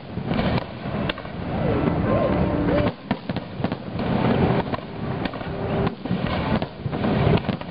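Aerial fireworks shells bursting in quick succession: a string of sharp bangs, several a second at times, over a continuous rumble of echoing reports.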